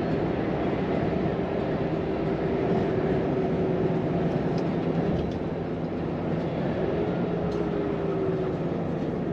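Volvo FM 420's 13-litre six-cylinder diesel engine running steadily with road noise, heard from inside the truck's cab while driving. The engine note drifts slightly in pitch.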